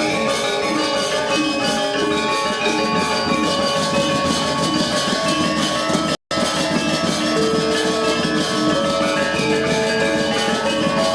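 Balinese gamelan gong ensemble playing a classical lelambatan piece: bronze metallophones ring in dense interlocking strikes over sustained gong tones. The sound cuts out for a split second about six seconds in.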